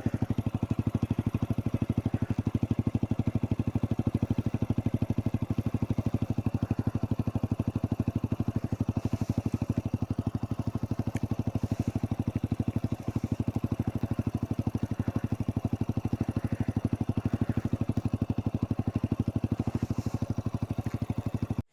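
Yamaha YBR 125's single-cylinder four-stroke engine idling with a steady, even beat that does not rise or fall.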